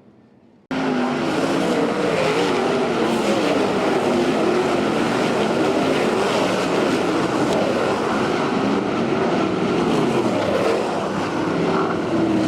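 Several dirt track race car engines running loudly together, their pitches wavering up and down with the throttle. The sound cuts in abruptly just under a second in.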